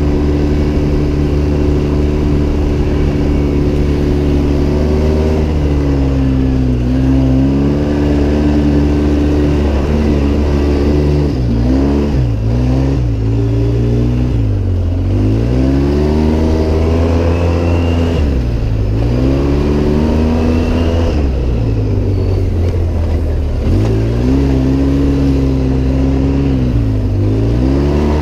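Off-road vehicle engine running hard while driving through sand dunes. Its pitch drops sharply as the throttle comes off and climbs back several times, every few seconds.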